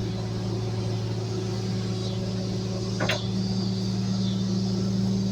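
Garbage truck's engine running with a steady low drone. A single brief, sharp noise comes about three seconds in.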